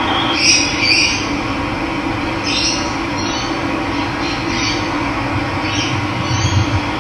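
Running water rushing steadily, with wild birds giving short high chirps every second or so.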